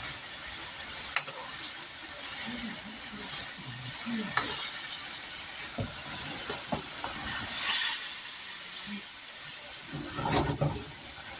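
Sausage and vegetables sizzling in a hot wok over a gas flame as they are stirred, a steady hiss that swells briefly about two-thirds of the way through, with a few sharp clicks of the spoon against the pan.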